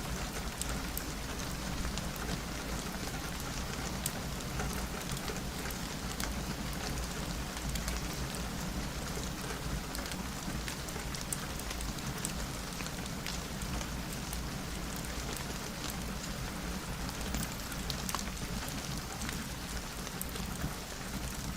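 Steady rain on a window, an even hiss with many scattered light ticks.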